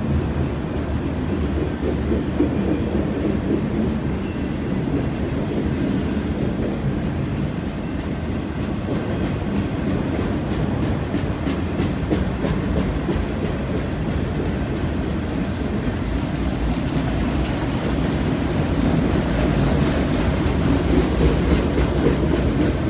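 Autorack freight cars rolling slowly past: a steady rumble of steel wheels on rail, with clicking as the wheels pass over rail joints.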